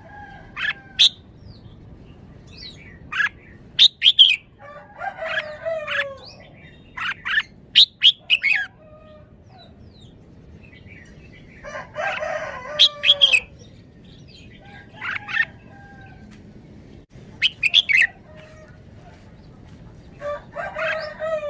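Caged red-whiskered bulbul singing short, sharp whistled phrases at irregular intervals. Three longer, lower, rougher calls come about five, twelve and twenty-one seconds in.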